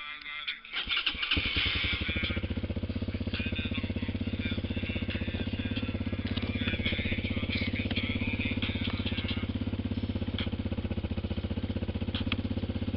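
TaoTao TBR7 dirt bike's single-cylinder four-stroke engine starting about a second in, then idling steadily with a rapid, even pulse.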